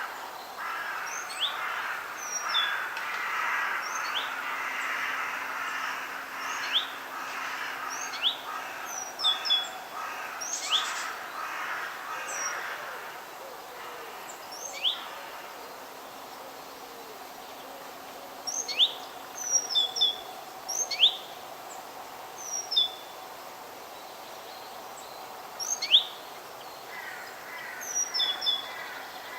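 Several birds calling in a forest: many short, sharp, high chirps that come singly and in quick clusters. A busier background chorus of twittering fills the first half and thins out about halfway through.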